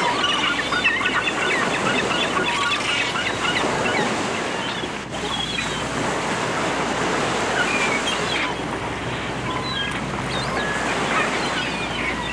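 Sea waves washing on a shore, with a flock of gulls giving many short calls over it, busiest in the first few seconds and again near the end.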